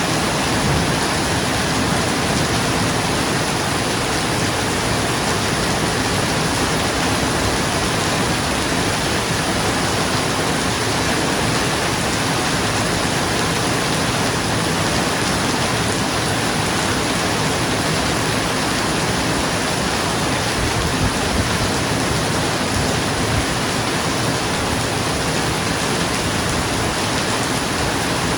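Steady heavy rain falling on a roof, a dense even hiss with no thunderclap.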